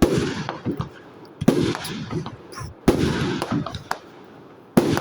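Aerial firework shells bursting: four loud bangs about a second and a half apart, each followed by a trailing echo.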